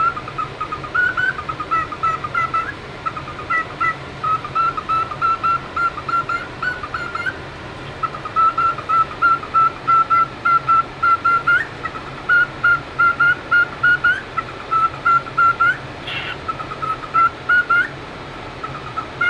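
Cockatiel chirping up close: runs of short, even chirps, about three or four a second, each run ending in a quick rising note, with short pauses between runs.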